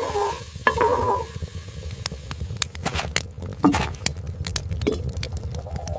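Scattered light clicks and clinks of dishes and utensils over a steady low rumble, with a few short calls in between.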